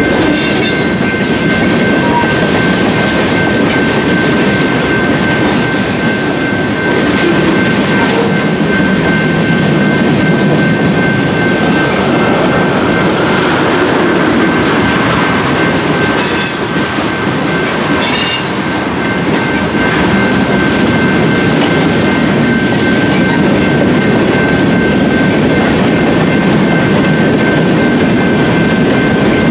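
Union Pacific manifest freight train's tank cars and covered hoppers rolling past: a steady rumble and rattle of steel wheels on rail, with a steady high-pitched ring over it. A few sharp clanks break through, two of them close together past the middle.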